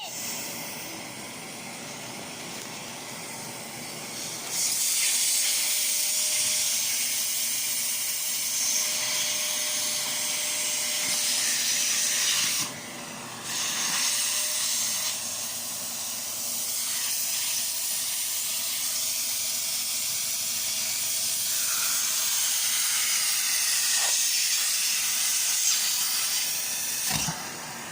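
Electric vacuum cleaner running: a steady rushing hiss of air over a faint steady motor tone. It gets louder about five seconds in, dips for about a second near the middle, and falls away near the end.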